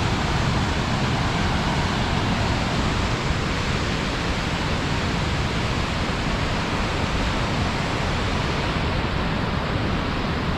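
The Potomac River rushing over the falls and rapids at Great Falls: a steady, even rush of whitewater.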